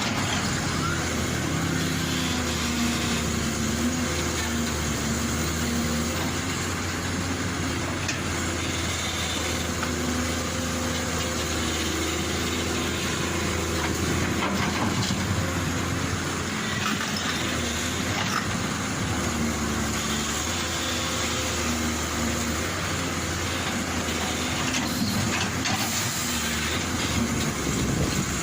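Diesel engine of a heavy earthmoving machine running steadily, its pitch and load shifting every few seconds as it works.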